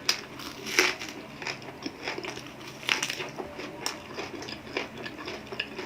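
A person chewing crunchy food close to the microphone: crisp, crackling crunches that go on irregularly, with a few sharper, louder bites about a second in and again around three and four seconds in.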